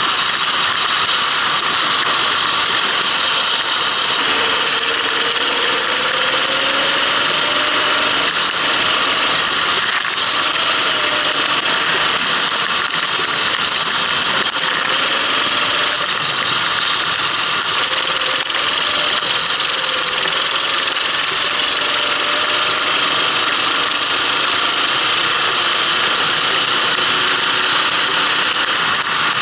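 Racing kart's engine running on a lap of a wet track, its pitch rising and falling with the throttle, under a steady loud hiss.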